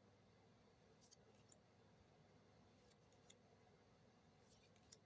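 Near silence, with a few faint, soft clicks of trading cards being handled and flipped.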